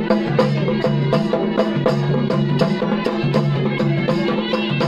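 Traditional folk music: a fast, even beat of about five strokes a second played over a steady low drone, with shorter higher notes above it.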